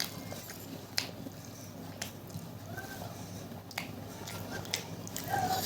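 Close-up eating sounds: chewing with sharp mouth clicks and smacks about once a second.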